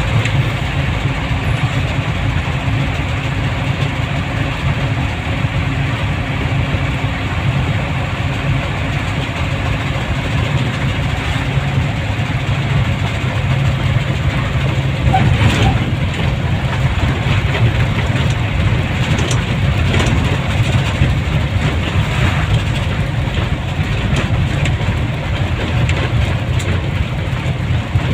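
Vehicle on the move: steady engine and road noise.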